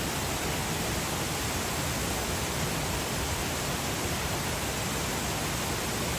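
Steady, even rushing of a mountain stream.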